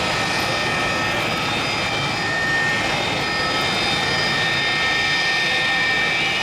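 McDonnell Douglas MD-82 jet turbines running with a steady whine: several constant high tones over an even rushing noise.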